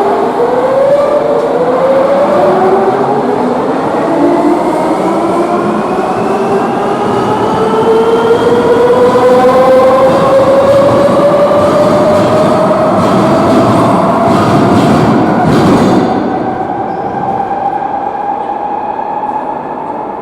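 Madrid Metro Line 5 train pulling away, its electric traction motors whining in several tones that climb steadily in pitch as it accelerates, over loud wheel and rail noise. The sound drops away after about sixteen seconds.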